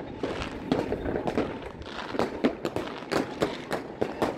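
Consumer fireworks going off on all sides: a dense, irregular run of cracks and bangs, some louder than others.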